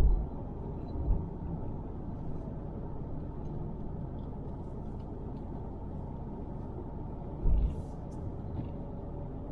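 Steady road and engine rumble heard from inside a moving car's cabin, with two short low thumps, one about a second in and one near the end.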